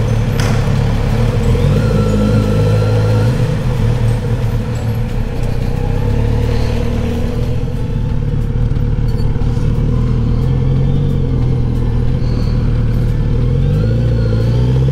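Kawasaki Z900RS inline-four with a full-system exhaust running steadily at low revs, then revving up near the end as it pulls away.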